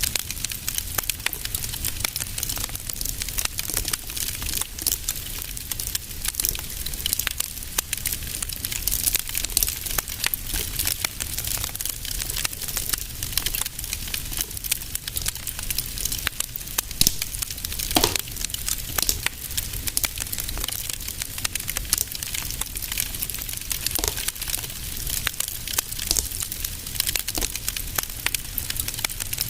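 Wood fire crackling steadily in a fireplace, with dense small snaps over a low rumble and a few louder pops partway through.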